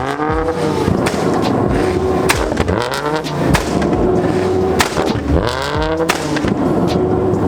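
Performance car engine revved hard over and over, its pitch sweeping up and falling back in three big revs, held steady for a moment near the middle, with several sharp exhaust pops and bangs between the revs.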